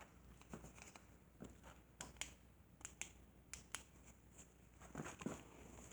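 Faint, scattered clicks and light taps of small objects being handled, over a low steady hum.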